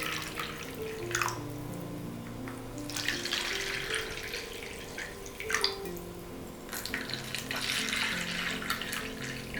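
Water from a kitchen tap running into a sink in stretches that start and stop, with a few sharp knocks, over soft background music.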